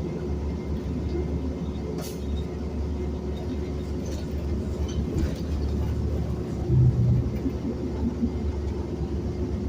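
Inside a moving city bus: steady low rumble of the engine and road noise, with a faint steady hum. A sharp click about two seconds in and a brief louder low hum about seven seconds in.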